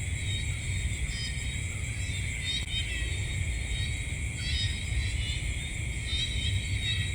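Night insect chorus: a steady, high, shimmering trill from many crickets, with short warbling chirp calls repeating every second or two, over a steady low rumble.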